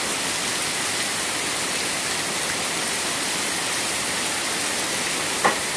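Heavy rain pouring down onto flooded ground, with a downspout gushing water beside it: a steady, even rush of water. A single brief sharp tap stands out near the end.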